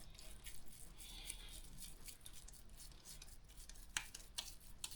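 Hands shaping minced-meat cutlets and setting them down on baking paper: faint soft handling and paper rustle, with a few light ticks near the end.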